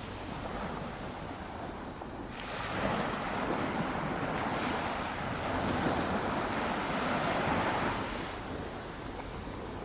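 Small waves breaking gently on a beach on a flat calm ocean: a soft wash of surf that swells from about two and a half seconds in and eases off near the end.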